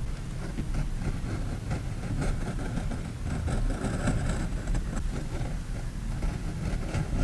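Close-miked desk sounds of paper and stickers being handled: many small ticks and clicks over a steady low rumble.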